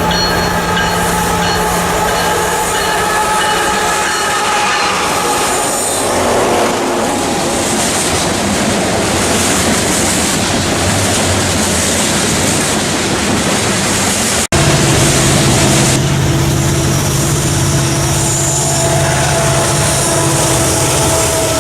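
A train passing close by: a loud, steady din of wheels on rail. About two-thirds of the way through there is an abrupt break, and after it a stronger low hum.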